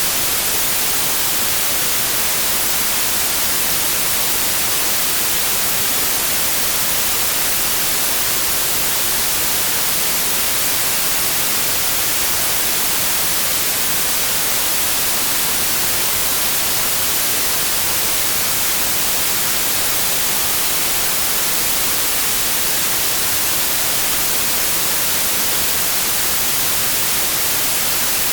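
Synthetic white noise: a steady, even hiss with no changes, brighter at the top than the bottom.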